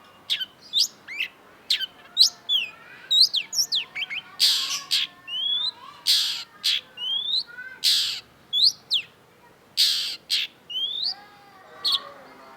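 Long-tailed shrike singing: a quick run of sharp whistled notes that slide up and down, broken in the middle by several harsh, scratchy calls.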